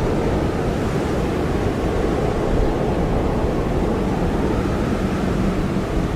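Blizzard wind blowing hard and steadily: a dense, constant rush, heaviest in the low end.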